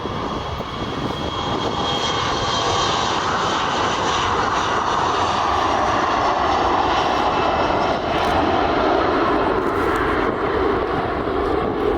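Airliner's engines passing close by, swelling over the first couple of seconds into a loud, steady roar, with the pitch falling in the second half as it moves away.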